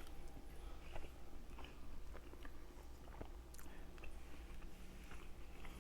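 A person chewing food close to the microphone, with scattered small mouth clicks throughout.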